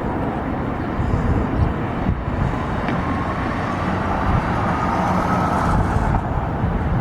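Steady engine rumble with a faint high whine that rises slightly through the middle.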